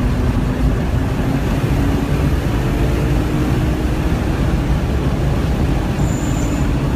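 Straight-six engine of a 1998 BMW E36 M3 heard from inside the cabin, pulling hard as the car accelerates on track, its note rising over the first few seconds and then levelling off, over a heavy rumble of wind and road noise.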